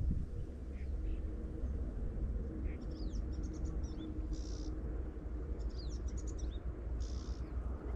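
A small bird calling: two quick runs of high, sliding chirps about three and six seconds in, with short harsh buzzy notes between them. Under it runs a steady low rumble.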